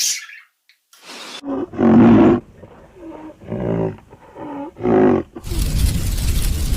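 A large animal roaring, four loud calls one after another. Near the end the calls stop and a steady rumbling noise takes over.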